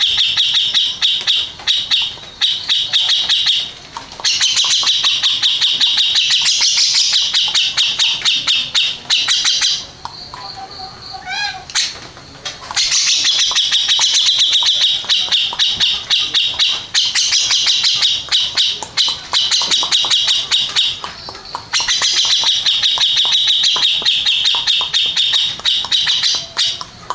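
Cucak jenggot (grey-cheeked bulbul) singing long, fast, chattering phrases of rapidly repeated high notes, several seconds each. About ten seconds in there is a short break, with a thin rising whistle.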